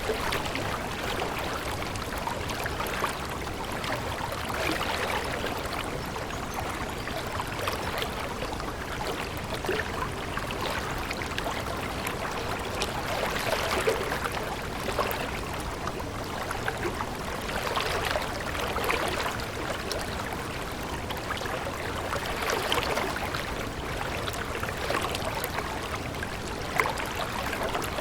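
A stream of water flowing and babbling steadily, with many small splashes and gurgles.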